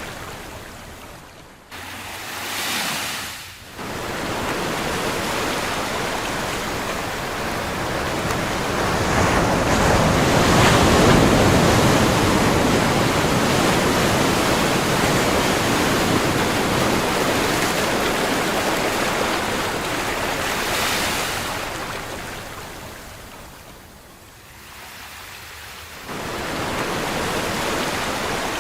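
Ocean surf: waves washing in as a steady rushing noise that swells to its loudest about a third of the way in, then slowly ebbs away before surging back near the end. The level jumps suddenly a few times, near the start and near the end.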